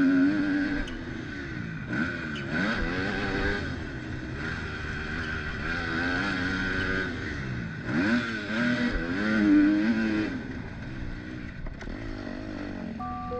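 Kawasaki KX250F four-stroke single-cylinder motocross engine revving up and down repeatedly as the bike is ridden round the track, its pitch climbing and falling with throttle and gear changes.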